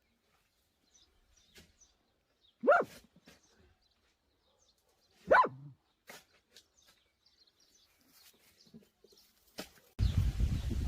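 A dog barking twice, single barks about two and a half seconds apart. A steady low rumbling noise starts abruptly near the end.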